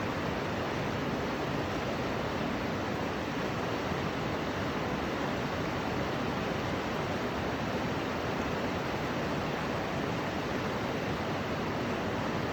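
Steady, even rushing noise with no swells or pauses.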